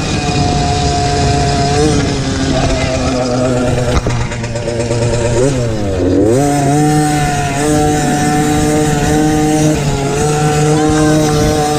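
MXF 50 Pro Racing mini motocross bike engine running hard, heard close up from onboard. About five and a half seconds in the revs drop sharply and climb back, as the throttle is closed and reopened.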